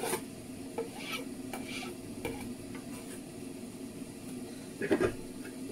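Spoon stirring pepper into a pot of okra soup, with soft scraping and a few light clinks, then a louder clatter against the pot about five seconds in.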